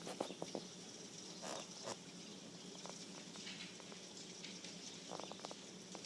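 Faint light rain pattering, with a few brief ticks scattered through it.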